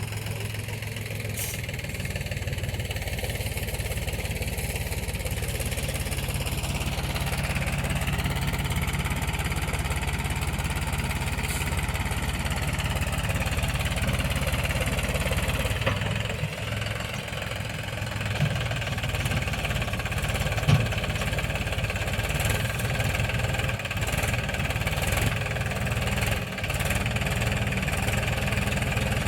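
Mahindra tractor's diesel engine running steadily, its pitch shifting a little as the load changes, with a single sharp knock about twenty seconds in.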